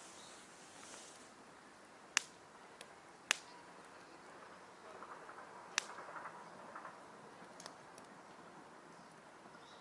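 Burning campfire wood crackling: three sharp pops, the first about two seconds in, with a few fainter snaps between them, over a faint steady hiss.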